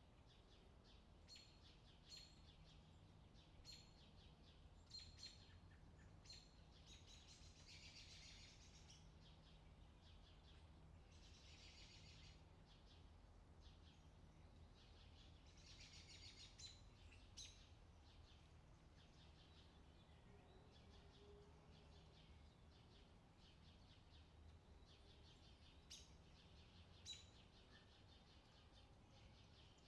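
Faint outdoor summer ambience: birds chirping in short repeated calls, with a few longer buzzy trills, over a low steady hum.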